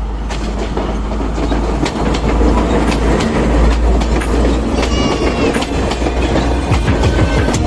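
Passenger train running along the track: a steady loud rumble with the clickety-clack of wheels over rail joints.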